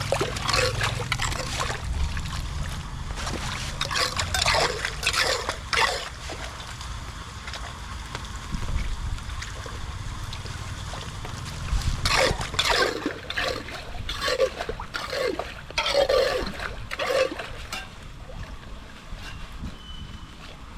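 Water splashing and sloshing in irregular bursts, in clusters through the first six seconds and again from about twelve to seventeen seconds, over a steady rush of flowing water.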